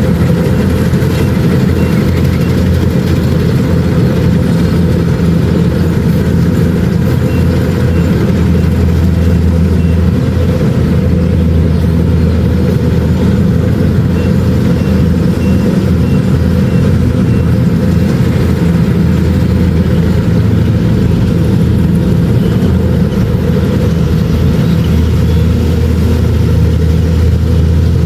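Kubota DC-70 Plus combine harvester's diesel engine and machinery running steadily with a deep, even drone.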